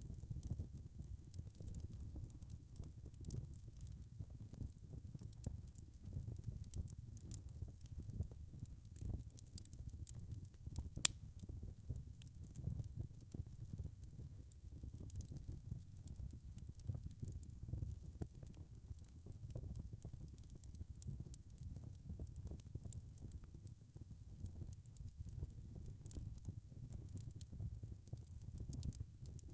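Wood fire crackling in a fireplace: a steady low rumble with many small scattered pops and one sharper pop about eleven seconds in.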